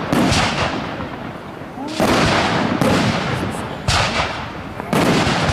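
Aerial firework shells bursting overhead: about five sharp booms in quick succession, each trailing off in a rolling rumble and echo.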